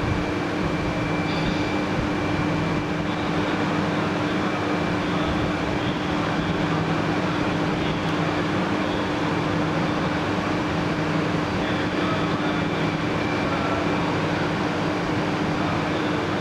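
200 series Shinkansen train rolling slowly into the station: a steady rumbling running noise with a constant low hum, its loudness unchanging throughout.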